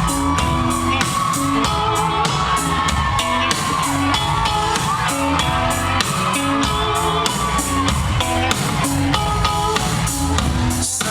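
Live rock band playing: a drum kit keeping a steady hi-hat beat, with bass and electric guitar.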